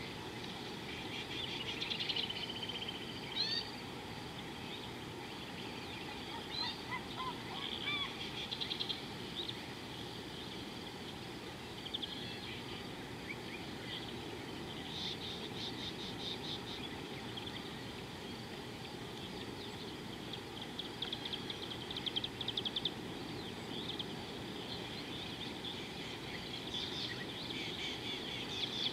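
Wild birds calling, with scattered chirps and rapid trills, the fastest trills about halfway through and again near the end, over a steady low background hiss.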